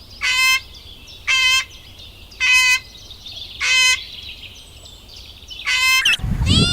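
A bird calling in short, even-pitched calls, about one a second, six in all. Near the end a cat starts meowing.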